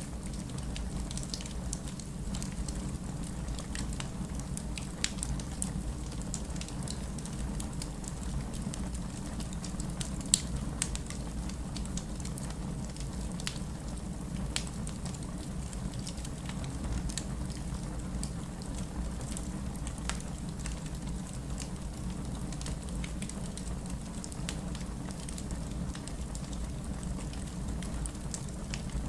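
Burning wood crackling: a steady low rumble under irregular sharp pops and snaps, a few of them louder, one plainly louder about ten seconds in.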